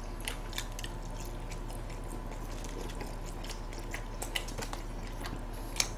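Close-miked chewing and small wet mouth clicks of people eating, over a steady low hum; one sharper click comes near the end.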